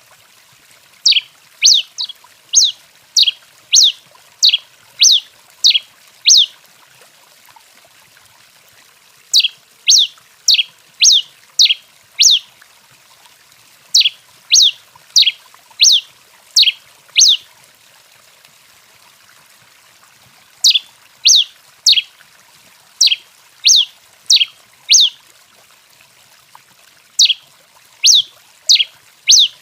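Tico-tico-rei finch calling: short, sharp notes, each a quick downward sweep, repeated about one and a half times a second in runs of several, with brief pauses between the runs.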